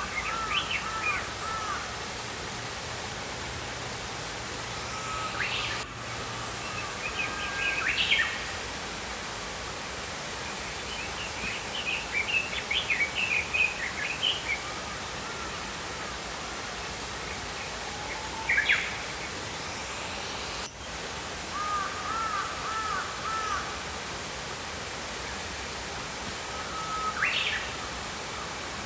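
Small songbirds chirping in short phrases every few seconds over the steady rush of a flowing stream.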